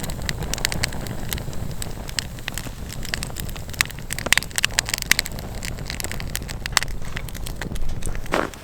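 Wood fire crackling, with many sharp irregular pops, over a steady low rumble.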